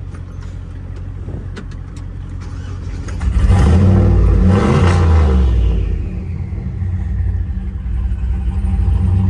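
Turbocharged 6.0-litre V8 of a Silverado pickup running at low speed, revving up about three seconds in for a couple of seconds, then dropping back. The owner says it runs as if it has no tune at all and needs retuning.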